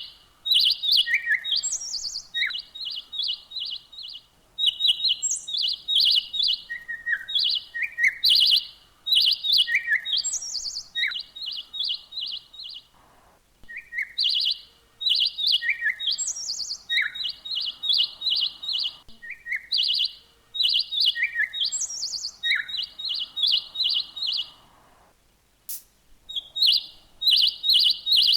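A songbird singing: repeated phrases of rapid, high chirps mixed with lower down-slurred notes, with short gaps about halfway through and again near the end.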